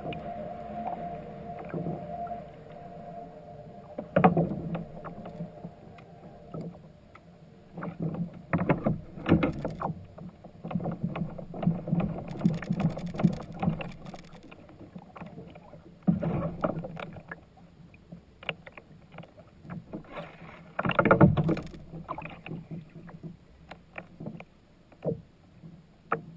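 Irregular knocks, thumps and water noise from a fishing kayak: gear and paddle bumping the hull, with several louder clatters. A steady hum runs through the first few seconds.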